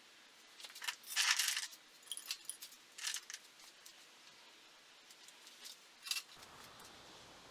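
Thin sheet-metal cans clinking and rattling against each other in short clusters, loudest about a second in, with a last clink about six seconds in.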